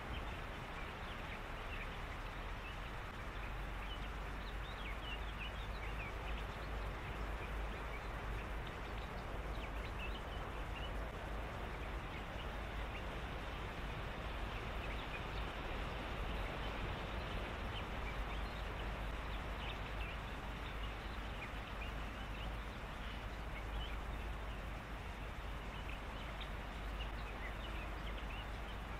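A steady chorus of many brief, high calls from small animals, over a continuous low rumble and hiss.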